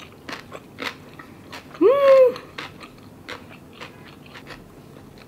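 Close-miked chewing of a mouthful of vegan kimbap (seaweed-wrapped rice roll), with soft wet clicks throughout. About two seconds in comes a short hummed 'mmm'.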